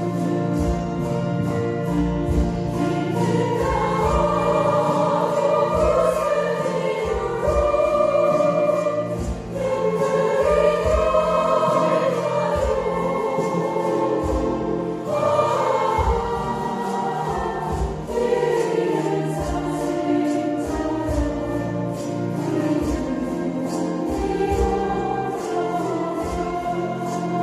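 A group of voices singing a slow melody in unison over chromaharp accompaniment, with a steady low beat underneath.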